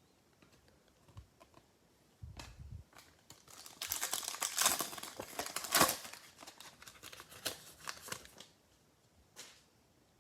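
A trading-card pack wrapper being torn open and crinkled in the hands, loudest about four to six seconds in, after a soft handling thump about two seconds in.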